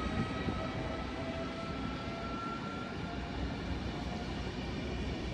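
Passenger train moving slowly through the station, with a whine that rises slightly in pitch over a low rumble.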